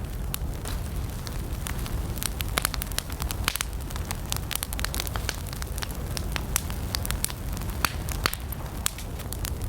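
Wood campfire burning with a steady low rumble of flame and frequent sharp pops and crackles from the burning logs.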